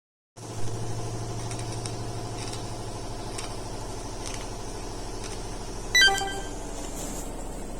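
Washing machine running: a steady motor hum with faint clicks about once a second, and a short, sharp ringing knock about six seconds in.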